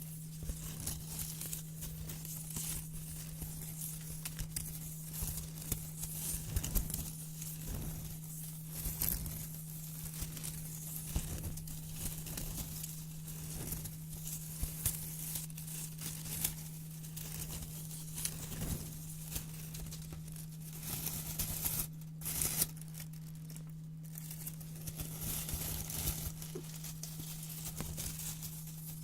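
Sheet of white paper being cut with scissors and handled: irregular crisp snips and crinkling rustles, with a steady low hum underneath.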